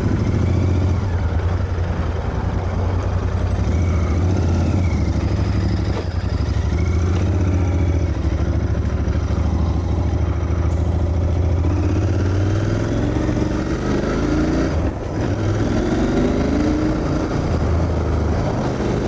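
Cafe racer motorcycle engine running as the bike rides off, a steady low note at first, then rising and falling in pitch through revs and gear changes in the last few seconds.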